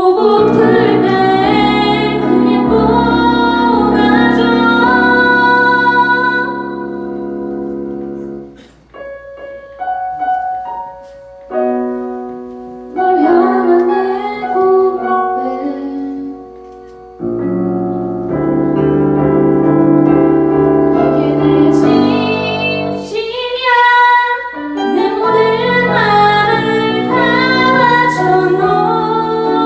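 Live performance of a ballad: a woman singing over piano accompaniment. From about nine to seventeen seconds in, the singing thins to a quieter stretch of piano notes, then the voice and full accompaniment return.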